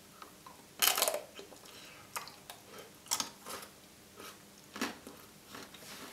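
Close-miked eating of a custard-dipped Maxibon ice cream sandwich with a white chocolate coating: a crunchy bite about a second in, then irregular crisp crunches and wet chewing as the mouthful is chewed.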